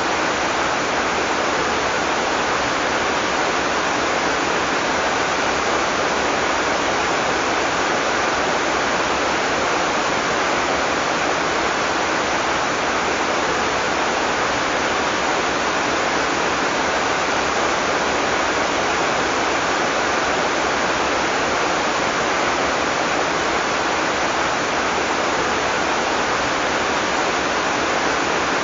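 Heavy tropical rain pouring steadily, a dense even hiss of water with no thunder.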